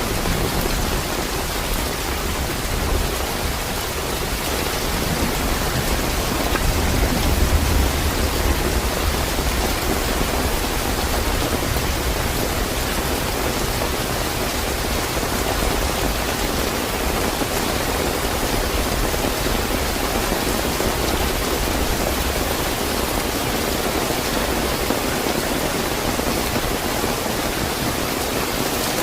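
Steady, fairly heavy rain falling, an even hiss of drops, with a low rumble that swells and fades about a quarter of the way through.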